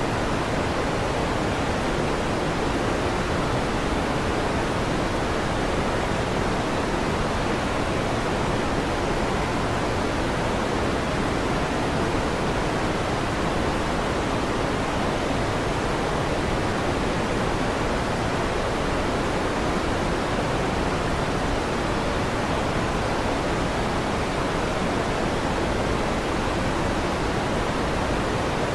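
Electric fan running steadily: an even, unchanging rushing noise, fullest in the low and middle range, with no rises or breaks.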